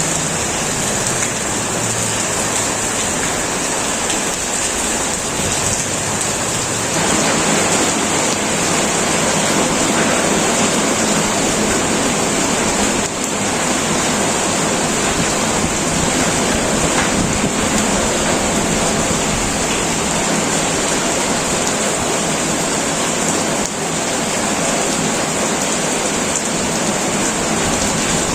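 Heavy rain falling steadily on a metal roof, a dense even hiss and patter that grows louder about seven seconds in.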